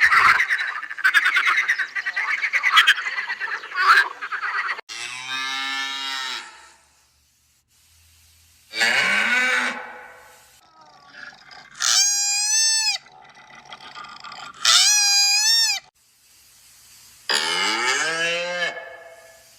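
Farm animals calling: a rough, rattling call for the first few seconds, then a run of separate drawn-out calls with short pauses between, two of them high and wavering, most like mooing livestock.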